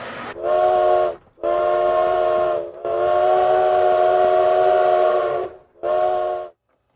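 O-scale model locomotive's electronic sound system blowing its whistle in four blasts, the third the longest and the last short, each a steady chord of several tones.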